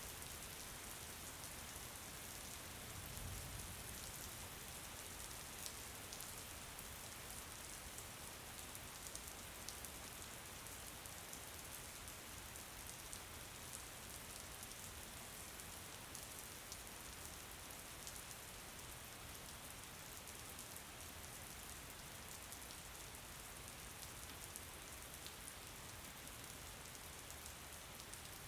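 Steady rain falling, with many small drops ticking through it. A brief low rumble comes about three seconds in.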